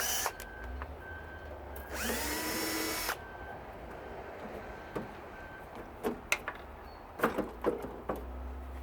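Cordless drill/driver spinning up and running for about a second, backing out a Robertson screw from the water heater's casing, followed by scattered clicks and knocks of the screws and metal parts.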